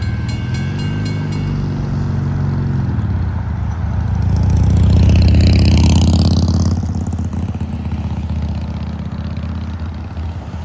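Road vehicles driving over the railroad grade crossing, engines pulling away and rising in pitch, with one passing close and loudest a little past the middle.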